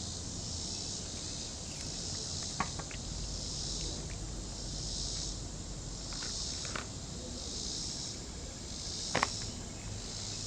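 Insects chirping in a high, pulsing chorus that swells about once a second, with three short sharp clicks.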